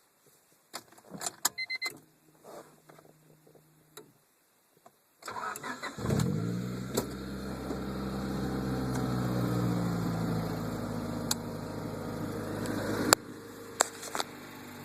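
Honda D16Y7 four-cylinder in a 1996 Civic, breathing through a Pacesetter header, Magnaflow cat and 2¼-inch Megan catback: faint clicks and a short hum first, then brief cranking before it catches about five seconds in and settles into a steady idle through the exhaust. Near the end a sharp click comes and the running sound drops to a quieter level. A noise in it is one the owner puts down to a throwout bearing that needs replacing.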